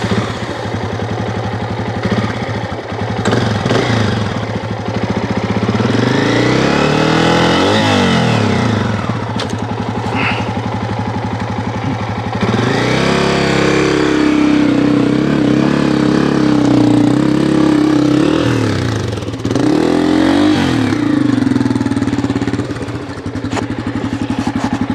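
Dirt bike engine running under way, the revs climbing and falling back a few times as the rider throttles up and eases off, with a steadier stretch in the middle.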